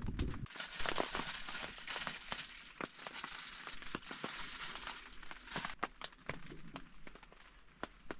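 Kindling and fire starters crackling and snapping as a fire catches in a small wood stove, irregular sharp crackles over a hiss that is strongest in the first few seconds.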